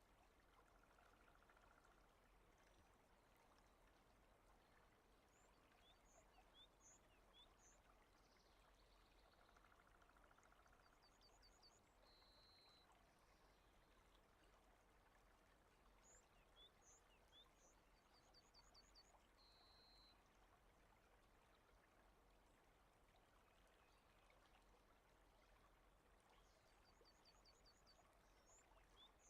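Faint, steady rain ambience, a soft even patter, with small birds chirping now and then in short high runs.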